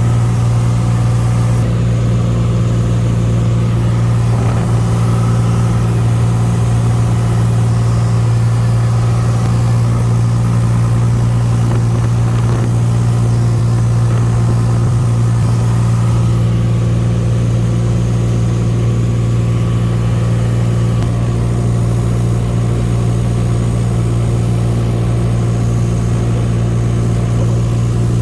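Cessna Skylane's piston engine and propeller droning steadily in flight, at an even, unchanging pitch and level.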